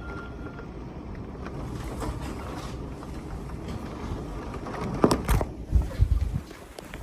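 Strong storm wind with wind-driven rain, buffeting the microphone with a steady low rumble; a harder gust hits about five seconds in and shakes the microphone for a second or so.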